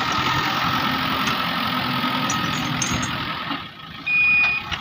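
Heavy diesel machine engine running hard, loud and steady, easing off about three and a half seconds in; near the end a reversing alarm starts, one steady high beep.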